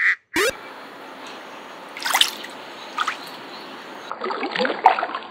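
Shallow water trickling steadily, with a few splashes about two seconds in, three seconds in, and a cluster of them near the end.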